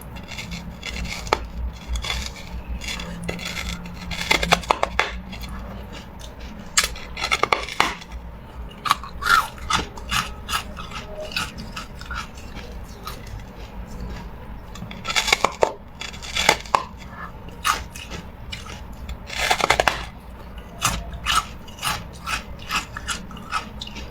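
Hard carbonated ice being bitten and chewed: irregular clusters of sharp crunches and cracks with short pauses between them.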